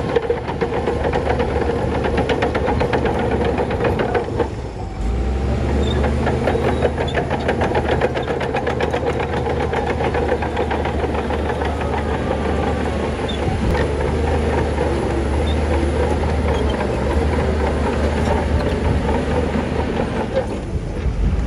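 Bulldozer's diesel engine running under load, with continuous metallic clattering throughout. About five seconds in, the sound briefly dips and the engine comes back with a heavier, deeper note.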